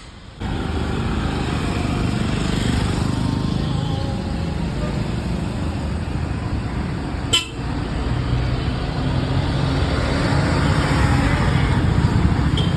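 A bus engine running loudly, with horn toots over it. A sharp click comes a little past halfway.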